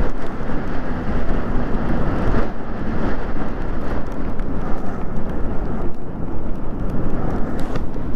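Wind rushing over the microphone of an e-bike being ridden in the rain, with the tyres on the wet road, as a steady loud rush.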